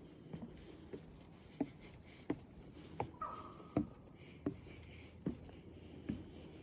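Footsteps on a wooden boardwalk trail, a steady walking pace of about one step every three-quarters of a second. A bird calls faintly behind them, with a short whistled note about halfway through.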